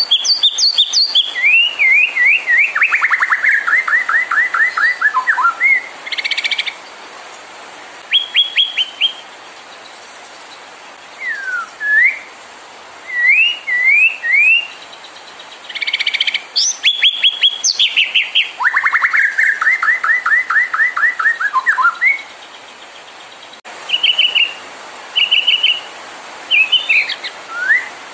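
White-rumped shama (murai batu) singing a varied song: fast rattling trills of quick descending notes, sweeping whistled slurs and sharp chirps, in phrases broken by short pauses.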